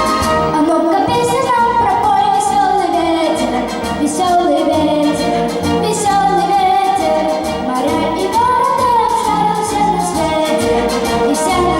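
A voice singing a melody over instrumental accompaniment with bass and a steady beat.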